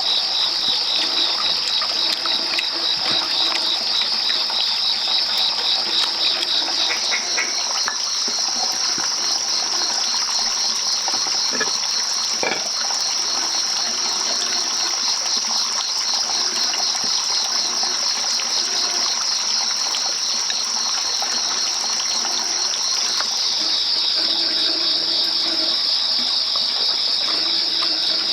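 Loud chorus of insects chirring, a fast steady pulsing trill that steps up in pitch about a quarter of the way in and back down near the end, with softer intermittent lower calls underneath.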